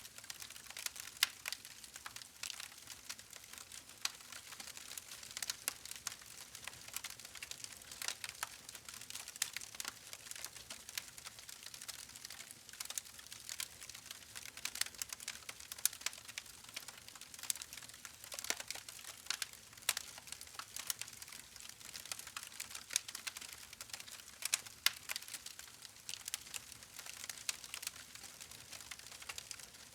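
Campfire burning with a soft hiss and frequent irregular crackles and pops from the wood.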